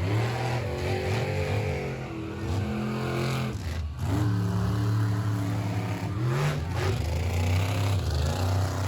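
Engine running and revving, its pitch climbing at the start, dropping briefly near the middle and rising again, then holding steady.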